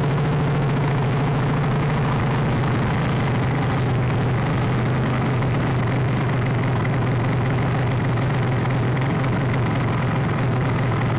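Road-legal pit bike engine running at a steady speed, a constant low drone with no revving.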